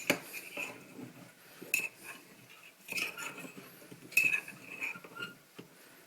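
A metal knife being run around the inside edge of a bowl to loosen a microwave cake: scraping, with several sharp clinks that ring briefly as the blade knocks the bowl.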